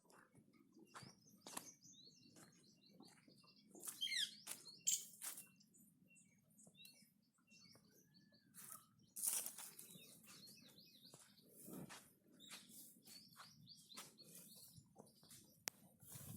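Small birds chirping and twittering in short, quick up-and-down calls, with scattered sharp clicks and knocks over a faint low background.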